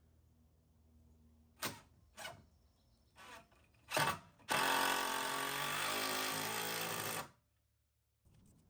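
A few short knocks, then a cordless drill driving a screw into framing lumber for about three seconds, running steadily and stopping suddenly.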